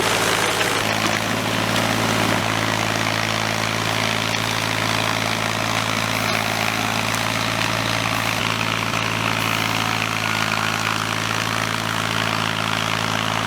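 Tractor engine running steadily at a constant pitch, with a broad mechanical rush over its low hum.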